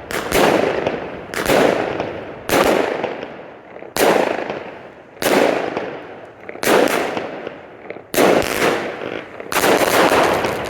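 A 500-gram consumer firework cake firing its shots: eight loud bangs, one about every one and a half seconds, each trailing off in a long echo.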